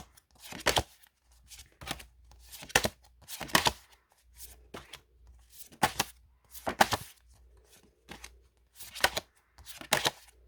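Paper postcards being handled and flipped through one at a time: a dozen or so short, sharp slaps and swishes of card at irregular intervals, with short quiet gaps between.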